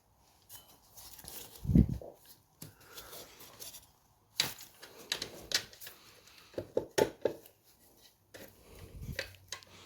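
Hand tools and metal parts clinking and knocking while the nut and bolt of a moped engine mount are worked loose, with a dull thump about two seconds in and a run of sharp metallic clicks in the middle.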